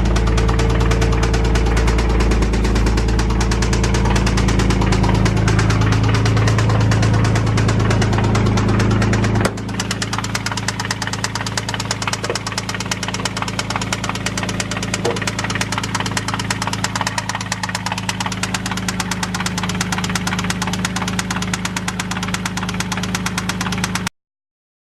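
Nissan 350Z's V6 engine running steadily with a rapid, even pulsing. About nine and a half seconds in its level drops abruptly; it then runs on and stops abruptly near the end.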